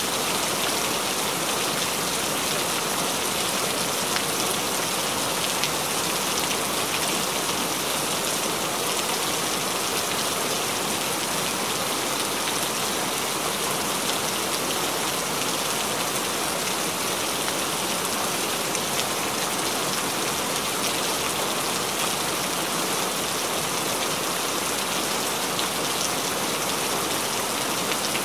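Steady rain falling on a surface, an even hiss that holds without breaks or changes.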